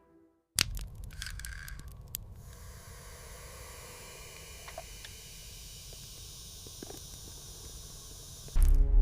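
A sudden sharp crack, then crackling and crunching for about two seconds, settling into a steady hiss with a low rumble.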